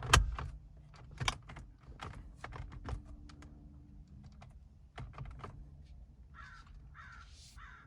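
Steering-wheel parts being pressed and snapped into place: a loud sharp click right at the start, then scattered lighter clicks and knocks for about five seconds. Near the end, a few caws from a crow.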